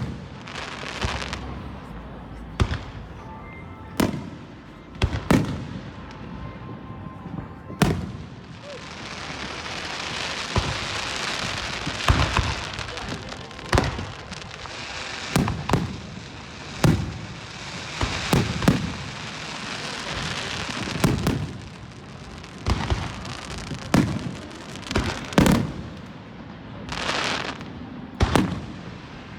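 Fireworks going off: a string of sharp bangs, one every second or so, with stretches of crackling hiss between them.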